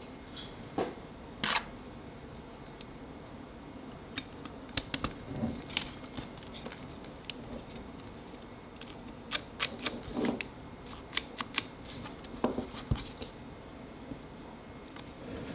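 Irregular small clicks and taps of tools and small parts being handled, some bunched in quick runs, over a faint steady hum.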